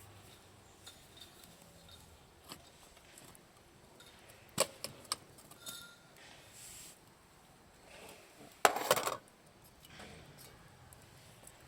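Scattered sharp clicks and clinks of small hard objects being handled, with a short, loud burst of clatter about nine seconds in.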